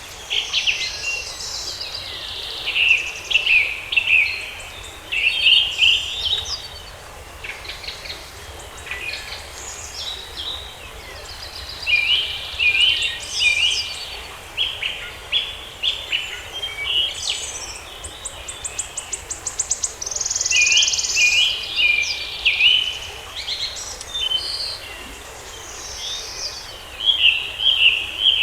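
Forest songbirds singing and calling in repeated bursts of chirps and warbles, with a fast high trill about two-thirds of the way through.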